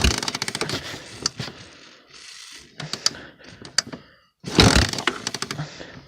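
Honda four-wheeler being kick-started cold, twice: each kick sets off a burst of clattering as the engine turns over, fading within about a second without catching. A hand is held over the intake boot as a makeshift choke.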